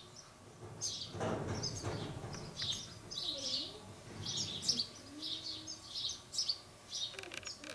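Small birds chirping repeatedly in short high calls, with a brief low rustling noise about a second in.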